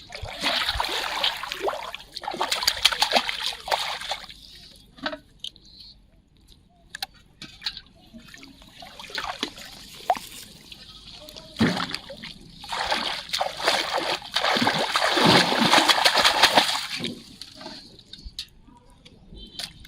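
Water splashing and sloshing in two long bouts of heavy splashing, the first over the opening four seconds and the second from about 13 to 17 seconds in. Between them come quieter trickles and drips.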